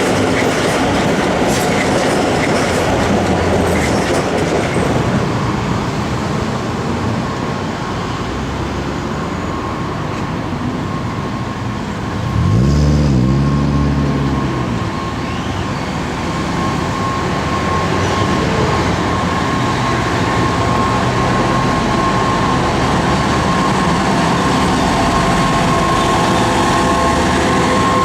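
A train running past on the tracks with a continuous rumble of wheels on rail. About halfway through there is a brief pitched sound of about two seconds whose pitch dips and rises, and a steady high tone runs through the second half.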